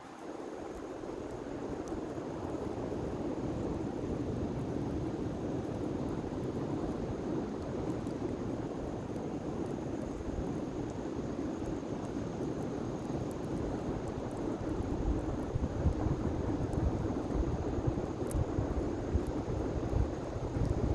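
Large bonfire burning: a steady rushing noise with scattered faint crackles. Wind buffets the microphone more heavily from about three quarters of the way in.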